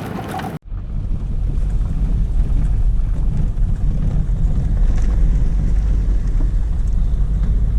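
Wind buffeting the microphone: a loud, steady low rumble that starts abruptly about half a second in.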